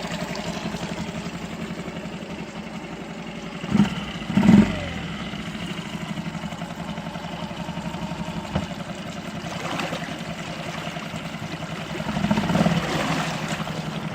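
Yamaha 4 hp single-cylinder four-stroke outboard running steadily at idle, its cooling water pumping well. It gets briefly louder about four seconds in and again near the end.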